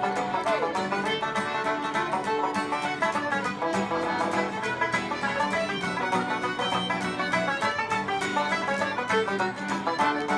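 A ceilidh band playing a lively traditional dance tune, with fast picked string notes over a steady beat.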